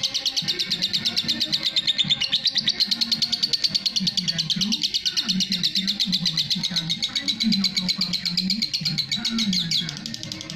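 Lovebird's long ngekek song: a rapid, unbroken chattering run of high chirps that stops just before the end.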